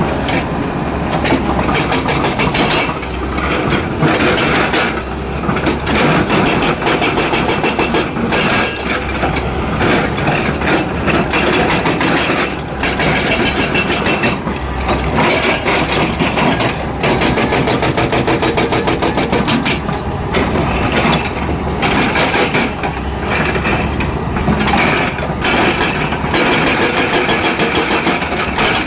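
Excavator's diesel engine running as the machine works, its level swelling and dipping with many short rattles and knocks.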